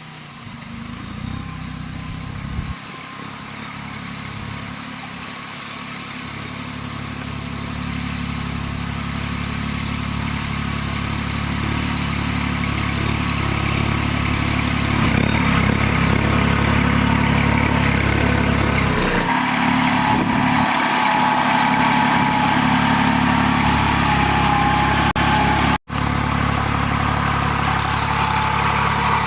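Kubota A211N compact tractor's diesel engine running steadily, growing louder over the first half as it comes closer, with a brief dropout near the end.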